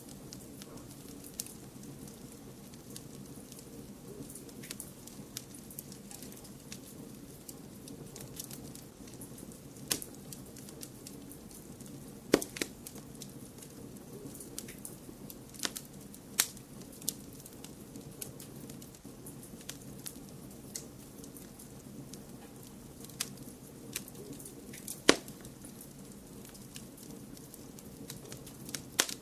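Wood fire crackling in a fireplace: irregular sharp pops and snaps over a steady low rush, with the loudest pops about twelve seconds in and again about twenty-five seconds in.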